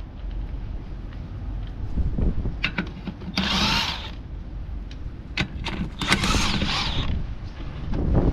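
A hand power tool running in two short bursts of about a second each, with a few sharp clicks between them, over a steady low rumble of wind on the microphone.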